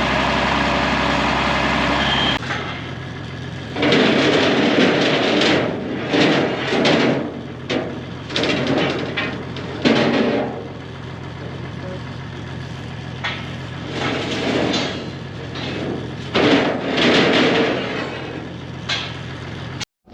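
An engine idling steadily for about two seconds, then irregular metallic clanks, bangs and scraping over a quieter running engine.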